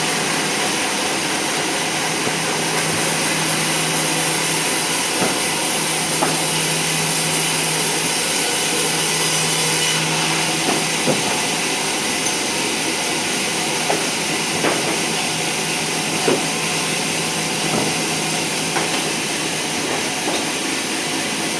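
Sawmill saw running steadily through a teak log, a constant motor hum under a hissing cutting noise, with a few short sharp ticks scattered through it.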